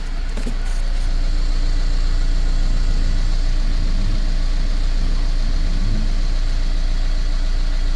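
Mercedes-Benz M274 turbocharged four-cylinder petrol engine idling steadily, getting louder over the first second and then holding even. It runs smoothly, a sign of a healthy low-mileage engine.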